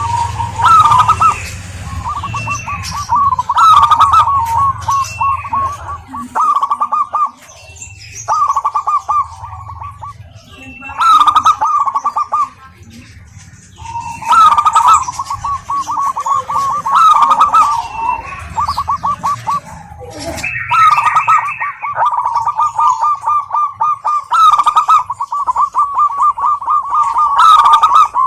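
Zebra dove (perkutut) cooing in phrases of rapid, stuttering notes, one phrase after another with short pauses between, with sharp high chirps over them.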